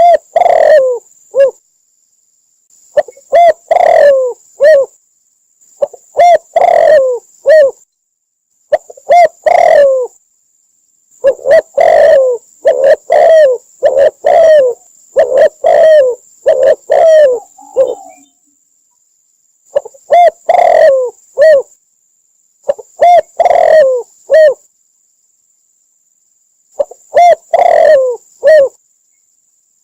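Spotted dove cooing in repeated phrases of a few low, slightly falling coos, a phrase every two to three seconds, with a longer run of phrases in the middle.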